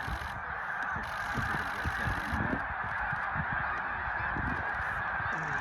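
A large flock of snow geese calling all at once, a dense, unbroken chorus of honking.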